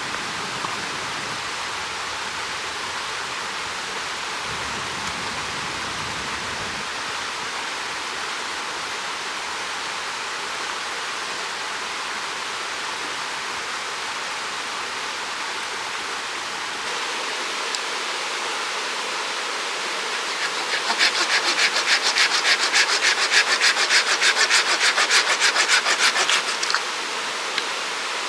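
A steady rushing hiss, then about twenty seconds in a hand saw cutting through wood in quick, even strokes for about five seconds.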